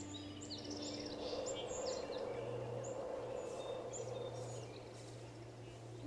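Small birds chirping in short high twitters over a steady rushing ambient noise, with a low sustained music drone continuing faintly underneath.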